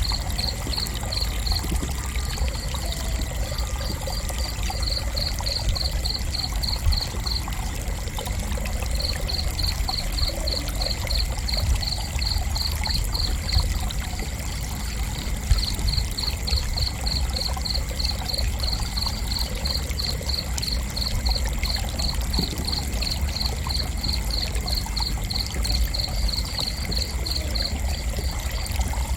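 Crickets chirping in a steady run of short, evenly spaced pulses, about three a second, with brief pauses, over a constant low background noise.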